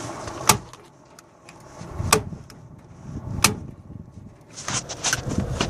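Staple gun firing three times, sharp snaps about a second and a half apart, followed by rustling near the end.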